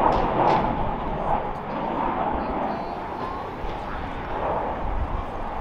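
Jet noise of a Boeing 737-800 landing, its CFM56 turbofans making a steady rushing sound.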